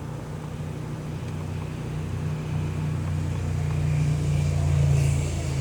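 A motor vehicle's engine running as a low, steady hum that grows louder to a peak about five seconds in, then eases off a little.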